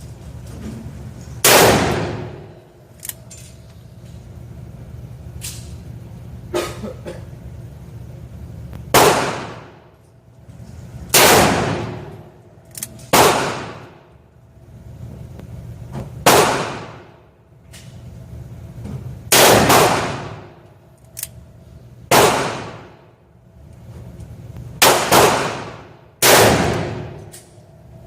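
Gunshots at uneven intervals, about ten loud reports, each trailing off in a long echo, with fainter pops in between. Two shots come close together near the end.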